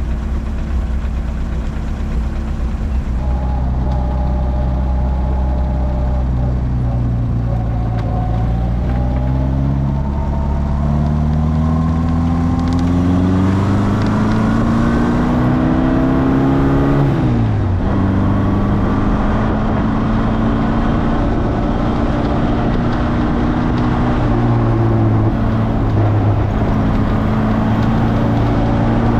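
Morgan sports car's engine heard on board under hard acceleration: the revs climb steadily for over ten seconds, fall sharply a little past halfway, then pull and rise again, with one brief dip in revs near the end.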